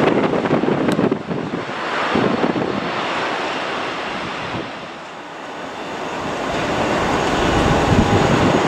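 Jet airliner engine noise with strong gusty wind on the microphone, the rumble growing louder over the last few seconds.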